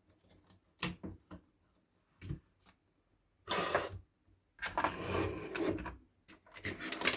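Handling noises from an electric kettle's parts being worked on: a few light clicks, then two stretches of rubbing and scraping about halfway through, and a quick run of clicks near the end.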